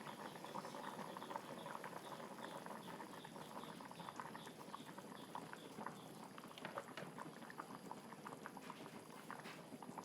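A pot of liquid boiling: a steady dense bubbling of small pops.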